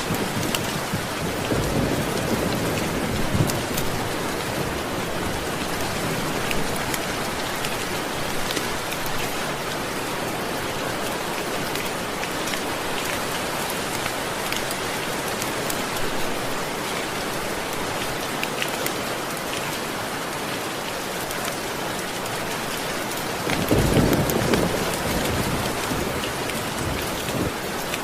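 Steady heavy rain falling, with distant thunder rolling twice: a low rumble a couple of seconds in and a louder roll of thunder about three-quarters of the way through.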